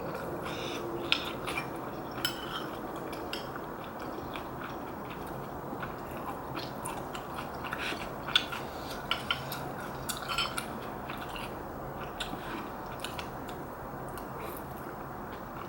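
Eating sounds of soup being eaten: utensils clicking and scraping against a bowl at irregular intervals, with chewing between. The sharpest clicks come about a second in and about eight seconds in.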